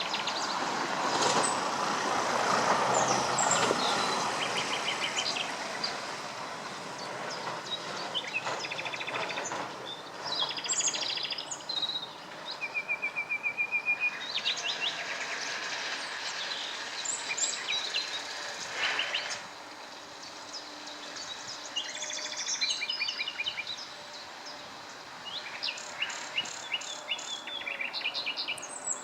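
Songbirds chirping and trilling again and again over steady background noise, which is louder in the first few seconds.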